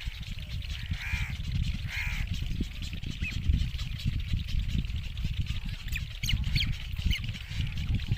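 Anhinga chicks begging to be fed. There are two harsh calls about a second apart, then a short one, and later a quick run of high, sharp chirps, all over a steady low rumble.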